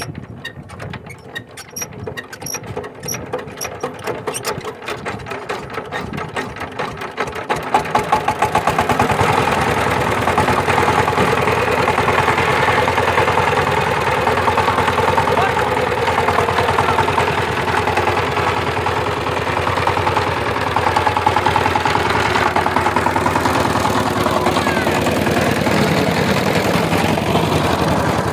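Power tiller diesel engine being started: a quickening run of strokes that grows louder over the first several seconds, then the engine catches about eight seconds in and runs steadily.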